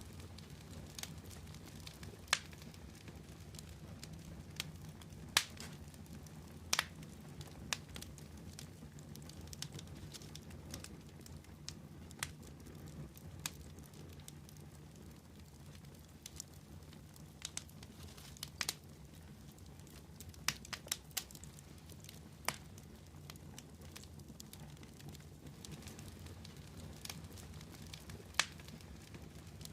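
Wood fire crackling: irregular sharp pops, a second or more apart, over a steady low rumble.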